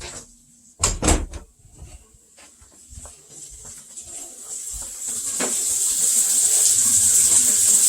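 Two loud knocks about a second in, then a sink tap is turned on and water runs from the faucet, the hiss building over a couple of seconds and then holding steady.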